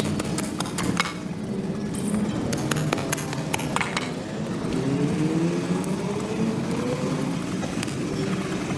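Sharp clicks and knocks over a steady low motor hum, then a motor tone that rises in pitch over a few seconds, like a vehicle pulling away.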